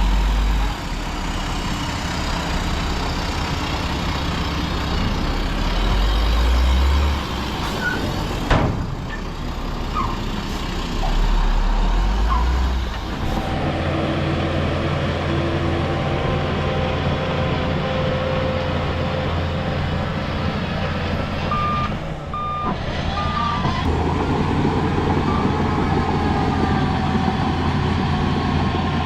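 Heavy diesel engines of earthmoving machinery running, settling into a steady note about halfway through. A sharp click comes about eight seconds in, and a short run of reversing beeps about twenty-two seconds in.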